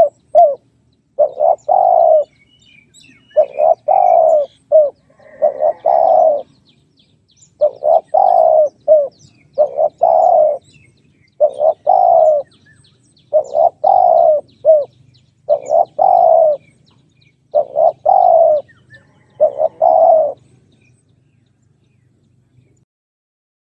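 Spotted dove cooing its repeated multi-note call, a phrase about every two seconds, falling silent near the end. Faint high chirps of small birds are in the background.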